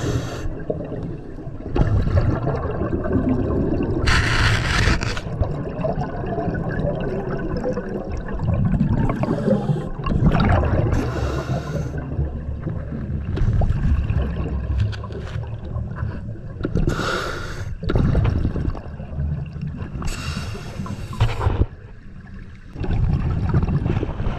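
Scuba diver breathing through a regulator underwater: a rush of exhaled bubbles about every three to six seconds, over a steady low underwater rumble.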